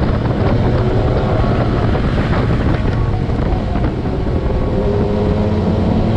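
Motorcycle engine running at fairly steady revs while riding, with wind rushing over the helmet microphone.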